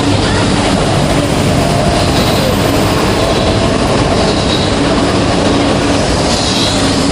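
E4 series double-deck Shinkansen train pulling out of the station, its cars rolling past with a steady loud rumble of wheels on rail and a few faint high wheel squeals.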